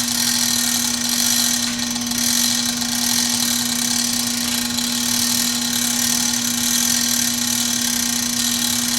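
Hoist on the engine-lifting A-frame running steadily as it raises a 2,500-pound jet engine: a constant mechanical hum with one strong low tone and a hiss above it.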